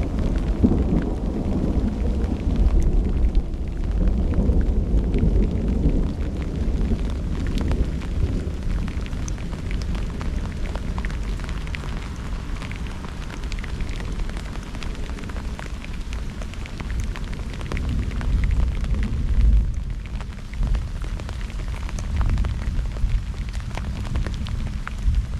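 Thunder rumbling through a steady downpour, the rumble heaviest in the first several seconds and easing after, with raindrops ticking sharply close by throughout.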